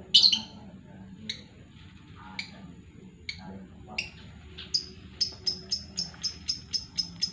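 A caged bird giving sharp, high chirps. There is one loud chirp at the start, then a few spaced single chirps, and from about five seconds in a quick regular run at about four chirps a second.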